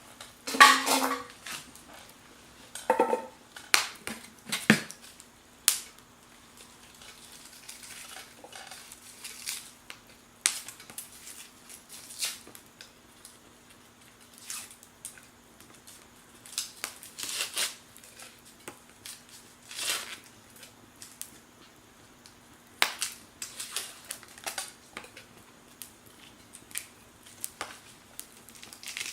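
Scattered sharp clicks, clinks and knocks from campfire cooking: pots, utensils and crackling wood. A few louder knocks near the start carry a short ring, over a faint steady hum.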